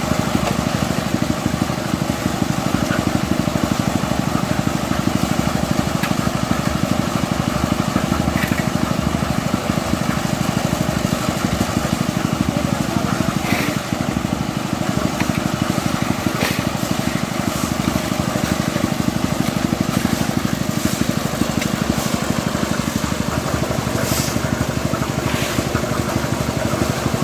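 A construction machine's engine running steadily without let-up, with a few brief, higher noises in the second half.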